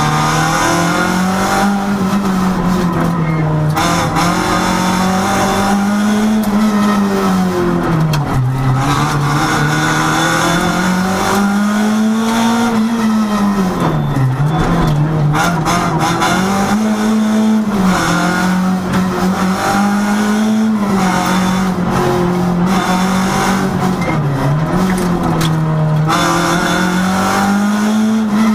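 Renault Sport rally car's engine heard from inside the cabin, revving hard and rising and falling in pitch through the gears on a twisty stage. It drops sharply under braking about 8, 14 and 25 seconds in.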